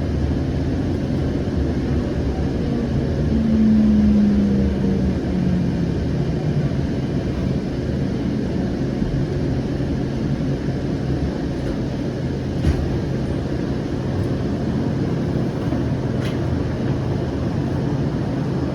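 Siemens S700 light rail vehicle braking into a station: a steady low rumble with a whine that falls in pitch a few seconds in as the train slows, then two sharp clicks later on.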